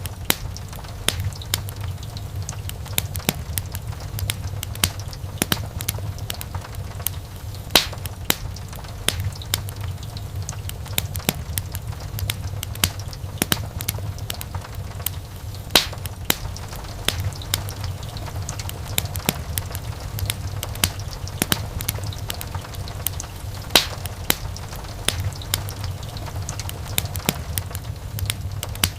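Wood fire crackling in a fireplace: many small pops and snaps over a steady low rumble. A sharper, louder pop comes about every eight seconds.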